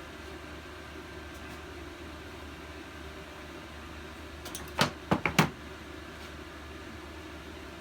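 A quick cluster of four sharp clicks about five seconds in, hand tools knocking against small-engine parts during disassembly, over a steady low hum.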